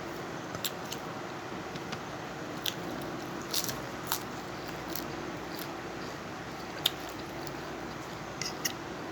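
A person eating papaya salad with rice noodles and fried fish: moist chewing with scattered sharp crunches and clicks, over a steady background hiss.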